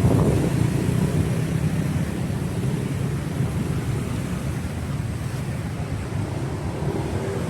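Steady rumble of street traffic, a little louder right at the start.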